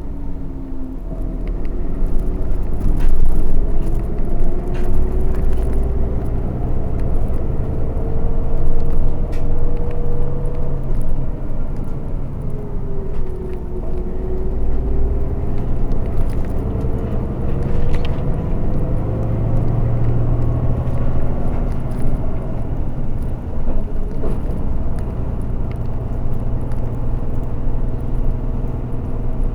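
Bus engine and road rumble while the bus drives along. The engine note rises and falls several times as it changes speed.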